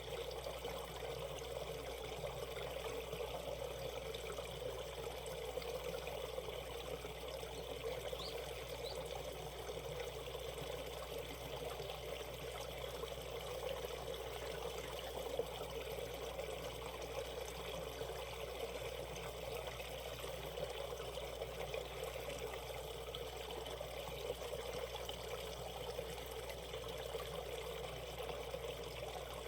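Shallow valley stream flowing and trickling steadily.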